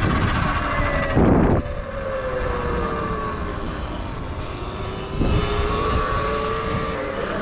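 Sur Ron electric dirt bike's motor whining while riding, its pitch drifting slowly down and then back up. Wind buffets the microphone, loudest in a gust about a second in.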